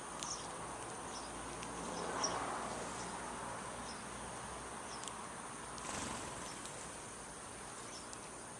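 Insects trilling steadily in a high-pitched drone, with a few faint short chirps.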